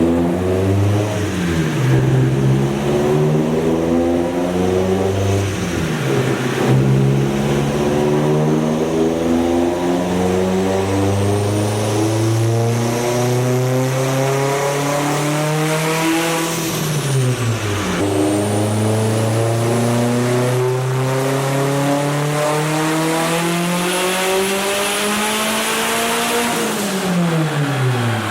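Turbocharged car engine on a chassis dyno being run under full throttle. After a few short revs, the engine climbs steadily in revs for about ten seconds, drops suddenly, then climbs again for about nine seconds. The revs fall away near the end.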